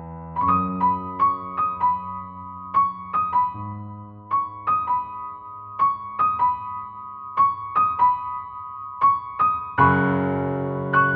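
Background piano music: a gentle repeating melody of short notes over held low chords, with a fuller chord coming in near the end.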